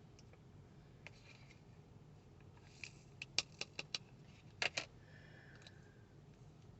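Faint small clicks and taps of diamond-painting drills and the drill pen on the canvas and tray: a handful of sharp ticks clustered in the middle.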